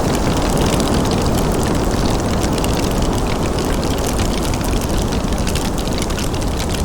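Fireplace fire crackling, with many small crackles over a steady low background noise.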